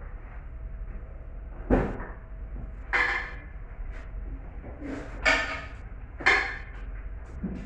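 Four sharp metallic clanks, a second or two apart, each ringing briefly: metal engine parts or tools being knocked and set down during an engine teardown.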